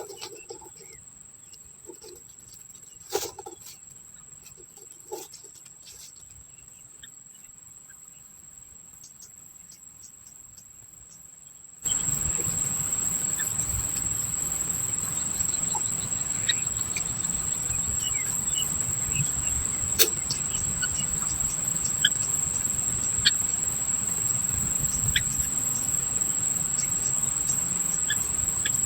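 Insects giving a steady, high-pitched drone that comes in suddenly and loud about twelve seconds in, with a few short chirps and ticks over it. Before that there is a quiet stretch broken by a couple of faint knocks.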